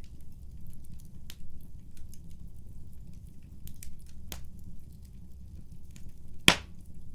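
Wood fire in a fireplace burning with a steady low rumble and irregular crackles, with one loud sharp pop from the burning wood about six and a half seconds in.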